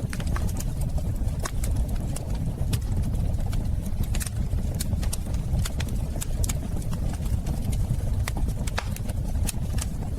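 Wood fire burning in a fireplace: frequent irregular crackles and sharp pops over a steady low rumble of the flames.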